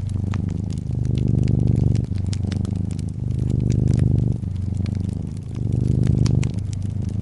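Close-up domestic cat purring steadily, the purr swelling and easing with each breath in and out, with scattered sharp pops and snaps of a wood fire crackling over it.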